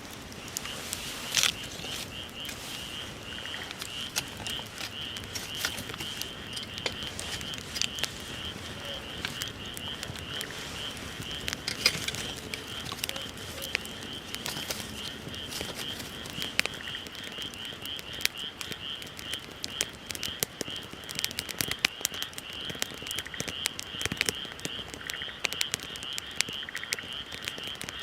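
Wood fire crackling with scattered sharp pops, under a frog calling in a high, rapidly pulsing trill that sets in about a second in and keeps on without a break.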